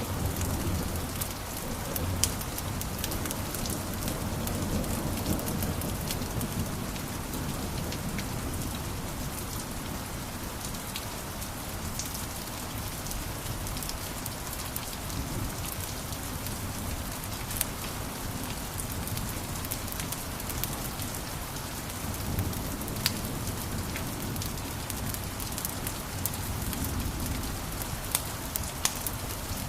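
Wood fire crackling in a fireplace: a steady hiss and low rumble of flames with scattered sharp pops.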